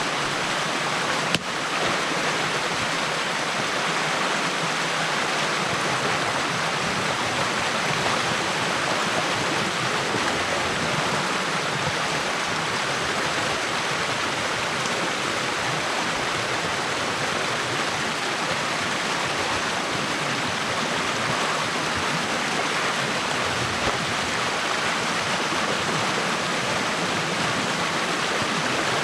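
Stream water rushing steadily through an opening in a beaver dam, with one short knock about a second and a half in.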